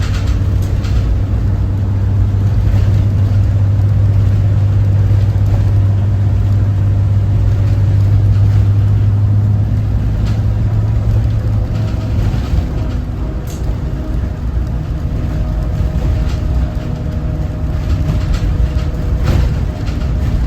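Cummins ISB 6.7 inline-six turbo-diesel engine of a Thomas Saf-T-Liner C2 school bus running as the bus drives. It makes a steady low drone that eases off about twelve seconds in.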